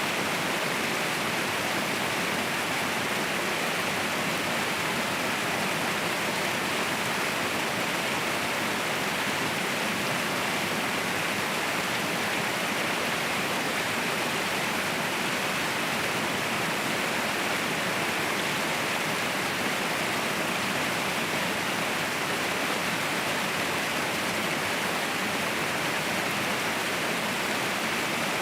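Mountain waterfall rushing, a steady dense roar of falling water with no changes.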